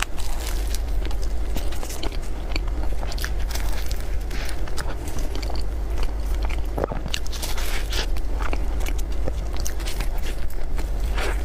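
Close-miked eating of cream puffs: bites into the pastry and chewing, with many short crisp clicks and wet mouth sounds, over a steady low hum.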